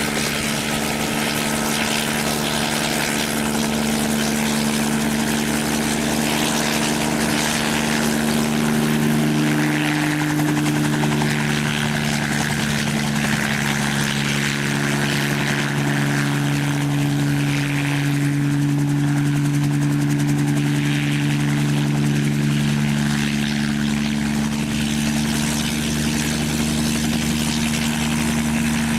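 Aircraft engine running steadily: a continuous drone with several held tones that drift slightly in pitch.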